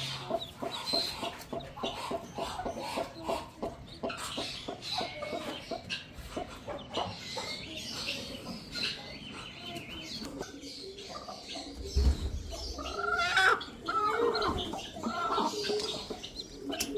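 Chickens calling: chicks peeping in high chirps over quick, repeated low clucks. The calls grow louder and longer after about twelve seconds, with a dull thump just before.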